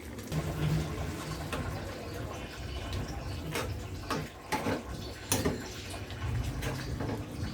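A pan of instant jjajang ramen simmering, a steady watery bubbling, with a few sharp clicks in the middle.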